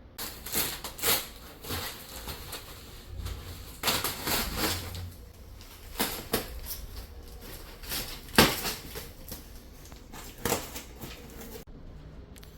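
Irregular knocks, bumps and rustling of things being handled, with one sharp knock, the loudest, about eight seconds in. It starts and stops abruptly.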